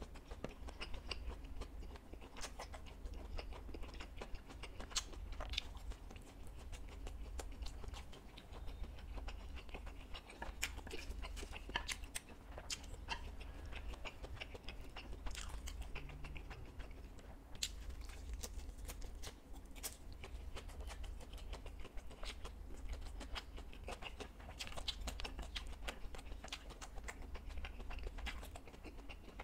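Close-up eating sounds: chewing and crunching fried food, with many small crackles and wet mouth clicks scattered throughout, over a steady low hum.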